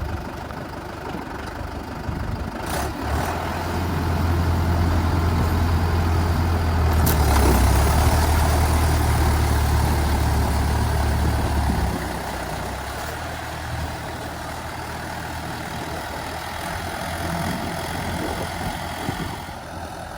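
Mahindra 475 tractor's diesel engine running, growing louder about three seconds in and holding a heavier, deeper drone until about twelve seconds in, then settling back to a lower, steadier run.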